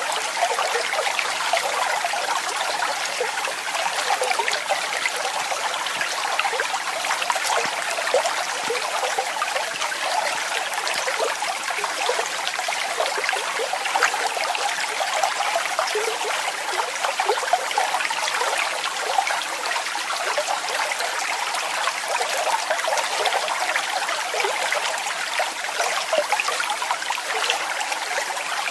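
Waterfall: water falling and splashing steadily, a busy hissing splash with little low rumble.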